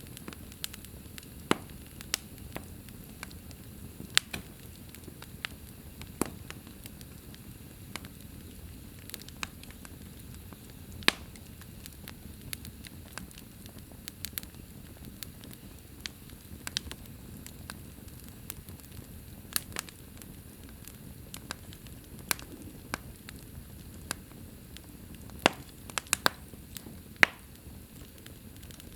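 Wood fire crackling in a fireplace: a steady low hiss and rumble of the flames with irregular sharp pops and snaps, a cluster of louder pops near the end.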